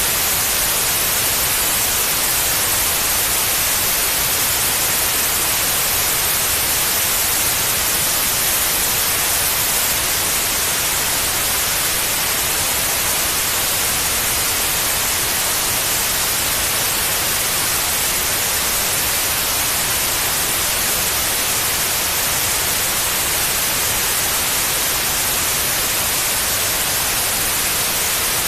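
Steady white noise: an even, unbroken hiss, brighter toward the treble, played as a sleep aid for babies.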